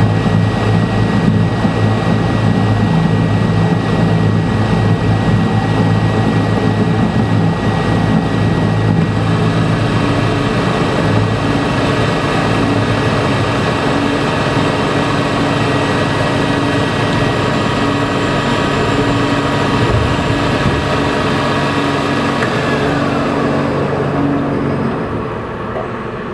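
An electric machine tool running steadily under load, with a steady whine over a rumble. About 22 seconds in, the motor's whine falls in pitch as it winds down.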